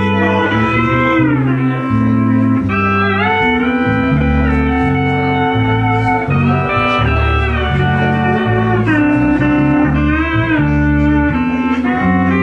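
Pedal steel guitar playing sustained, slow chords that glide smoothly up and down in pitch as pedals and knee levers bend the strings, over low bass notes that change every second or so.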